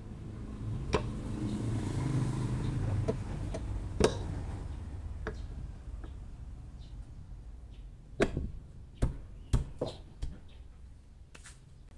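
Scattered clicks and sharp knocks over a low rumble, with a quick run of louder knocks about eight to ten seconds in.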